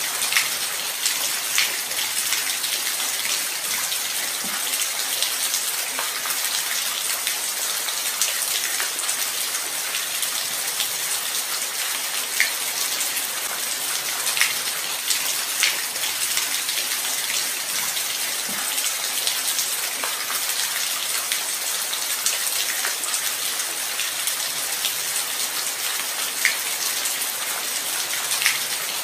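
Steady light rain: an even high hiss with scattered louder drops ticking close by.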